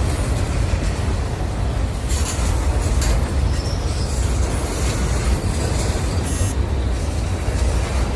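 Train passing close by with a steady low rumble of wheels on rails, with faint metallic rail noise on top.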